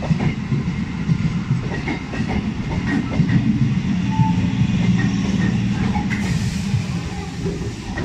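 Suburban EMU train running along the platform: a steady low rumble of wheels on track with scattered clicks, and a hiss joining about six seconds in.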